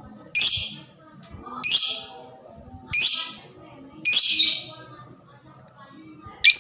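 Lovebird giving short, harsh, shrill shrieks, one about every second, with a longer pause before the last call near the end.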